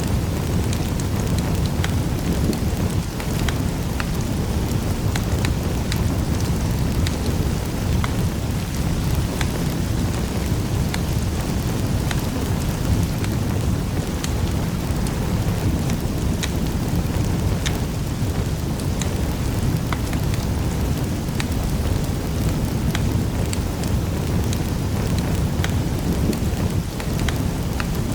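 Fireplace fire crackling: scattered sharp pops and snaps over a steady low rumble of the flames.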